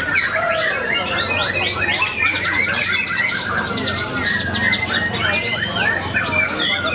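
Many caged songbirds singing at once in a contest line-up, a dense chorus of overlapping whistles, chattering and quick trills.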